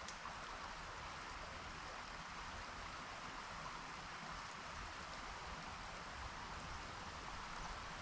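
River water running steadily, a constant rushing hiss.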